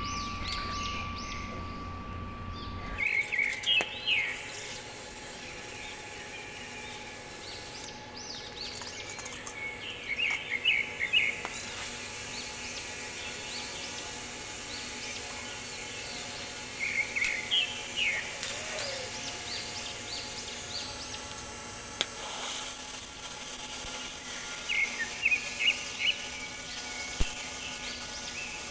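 Small birds chirping in short bursts of quick repeated notes every few seconds over a steady background hum, with a couple of sharp clicks near the end.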